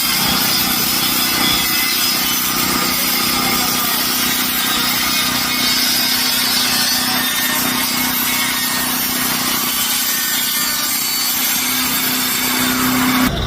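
A steady, continuous noise like a power tool cutting, with a steady low hum under it. It starts and stops abruptly.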